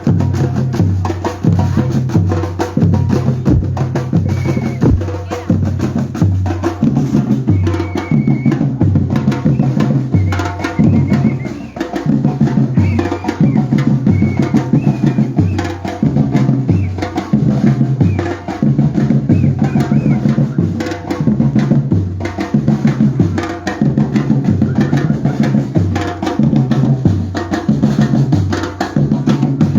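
Batucada percussion group playing: deep bass drums beat a steady repeating pattern under fast, dense snare and hand-percussion strokes.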